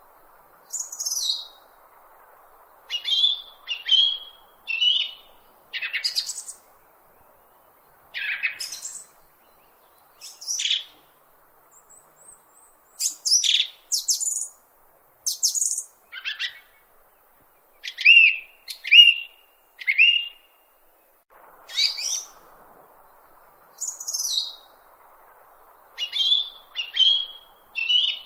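A bird chirping: a series of short, high calls, roughly one a second with a few brief pauses, some sliding down in pitch and some in quick runs of three.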